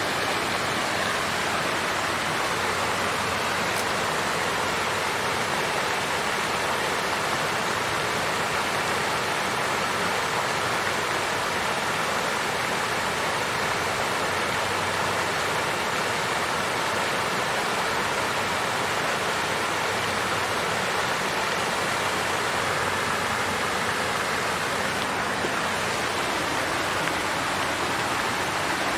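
Water fountain flowing steadily, a continuous even splashing rush of falling water.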